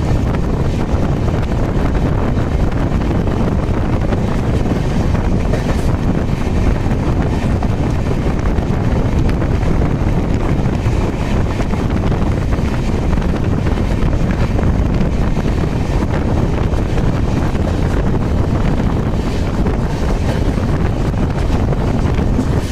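Steady loud rush of wind and rumble from an express train's passenger coach running at high speed, with wind blowing on the microphone.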